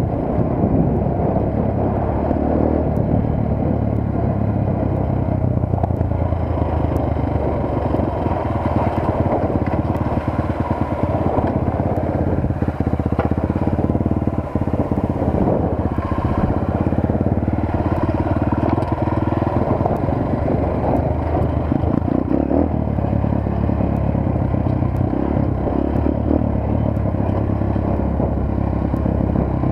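Motorcycle engine running steadily while the bike is ridden, an even hum with only small rises and falls in pitch.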